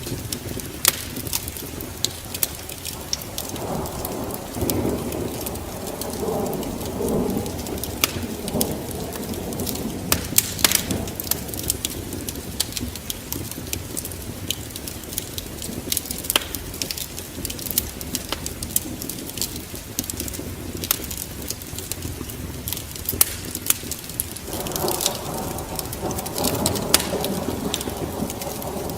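Steady rain mixed with a wood fire crackling in sharp pops. Thunder rumbles twice, for several seconds about three seconds in and again near the end.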